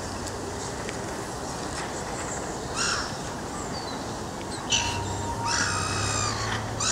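Birds giving harsh calls: a short one about three seconds in, another near five seconds, then a longer call and one more near the end, over a steady background hiss.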